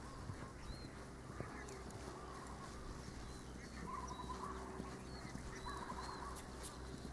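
Birds calling: a nasal, wavering call repeats several times, with short high chirps in between, over a steady low rumble.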